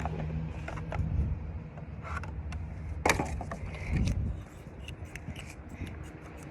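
Light clicks, taps and small scrapes from a new wooden kendama and its packaging being handled, the sharpest click about three seconds in, over a steady low hum.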